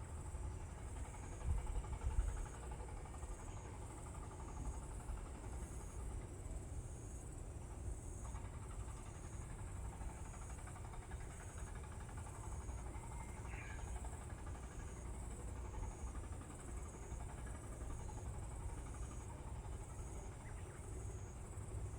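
Insects chirping outdoors: a high, thin trill pulsing about once a second over a steady low rumble.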